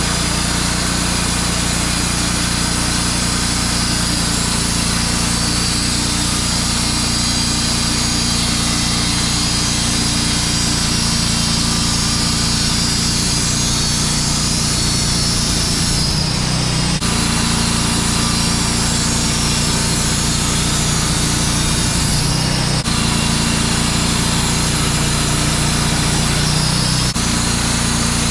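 Wood-Mizer portable band sawmill running steadily, its engine under load as the band blade saws through a pine log.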